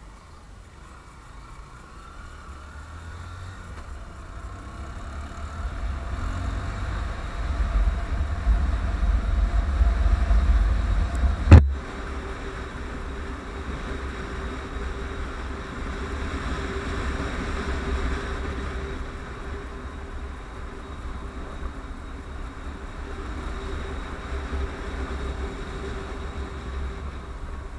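Honda CBF150 single-cylinder motorcycle being ridden, with wind rumbling on the microphone. The rumble grows louder over the first ten seconds, there is one sharp click about eleven and a half seconds in, then a steadier engine hum runs under the wind.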